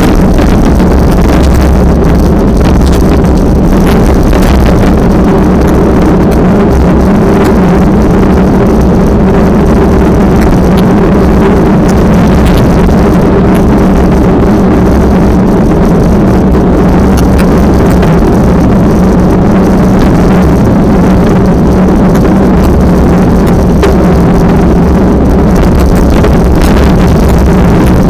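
Strong wind blasting the microphone, loud and steady throughout, with a steady low hum underneath.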